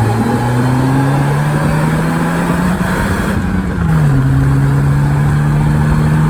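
Car engine accelerating under load, its pitch slowly climbing, then dropping sharply as it shifts up about four seconds in and running on steadily.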